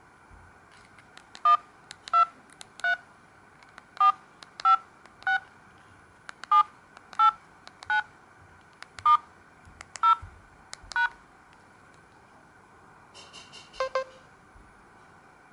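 Samsung GT-C3222W mobile phone's keypad tones: twelve short two-tone DTMF beeps in four groups of three, matching the keys 1 to 9, then *, 0 and # pressed in order. A brief different beep follows near the end.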